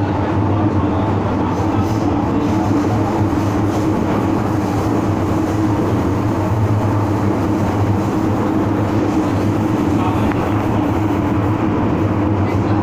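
Hong Kong MTR metro train running, a steady, even rumble with low droning tones and no change in speed.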